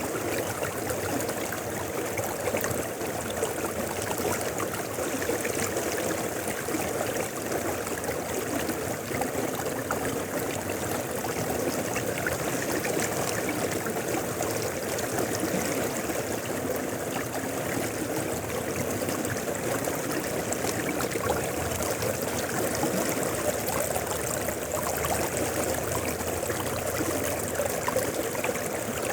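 Mountain river flowing steadily, an even rush of water with no change.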